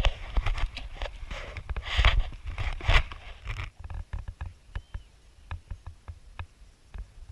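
Close knocks and clicks of gear being handled near the microphone, with a low rumble, busy for the first half and then thinning out to scattered faint clicks.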